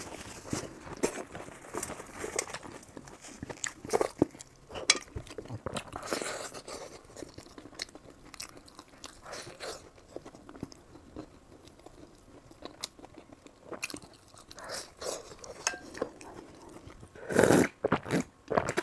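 A person biting and chewing crunchy food close to the microphone, with irregular crackling crunches; the loudest bites come near the end.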